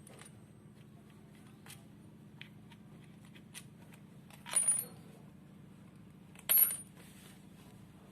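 Small metal parts clinking twice, once about four and a half seconds in and again about six and a half seconds in, as the motorcycle's cover bolts are taken out. There are light ticks of handling between them, over a steady low hum.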